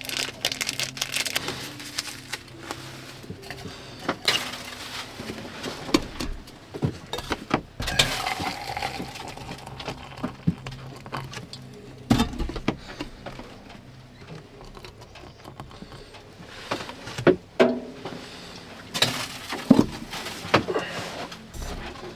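Irregular knocks, clinks and rustling of objects being handled, with louder sharp knocks late on.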